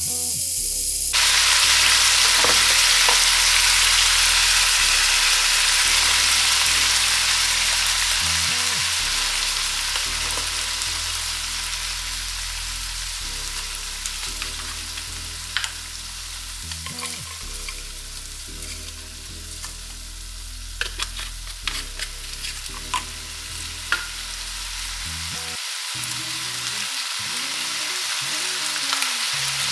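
Food frying in a hot pan: a loud sizzle starts suddenly about a second in, as the food goes into the pan, then slowly dies down. Sharp pops and crackles become more frequent in the second half. Background music plays underneath.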